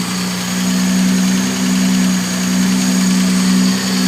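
Classic car engine idling steadily with a constant hum. The owner diagnoses fuel starvation: it is running out of fuel through a blocked fuel filter.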